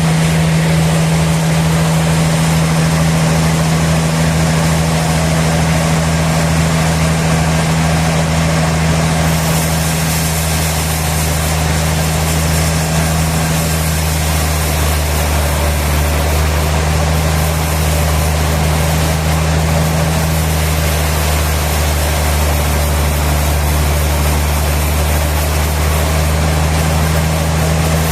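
Sawmill machinery running with a loud, steady low drone.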